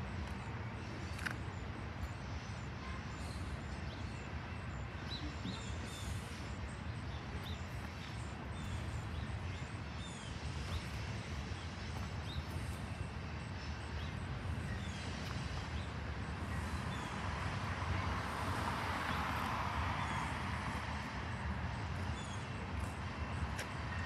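Distant freight train rolling past, a steady low rumble of the wagons on the rails, with birds chirping faintly over it. In the last third, road noise swells as a car passes.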